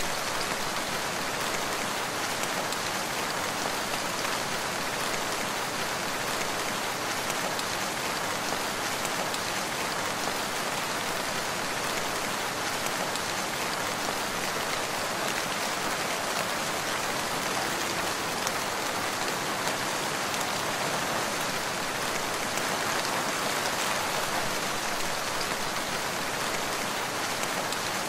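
Steady rain falling in a forest, a constant dense patter of drops with no thunder.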